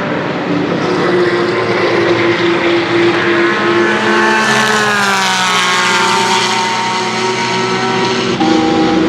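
Racing cars' engines running hard, one passing close about halfway through with its note falling as it goes by, and another car's engine note coming in near the end.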